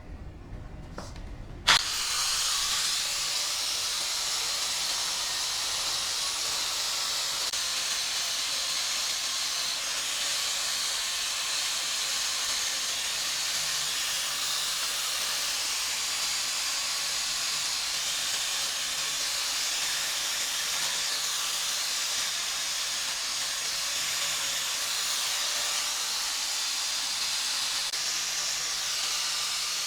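A sharp click about two seconds in, then a steady, even hiss of a pressurised jet of air or spray that holds unchanged.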